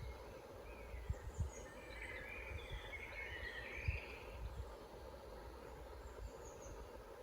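Woodland birds singing: a warbling phrase about two to four seconds in and a few high chirps near the end. Beneath them runs a steady low rumble with a few short low thumps.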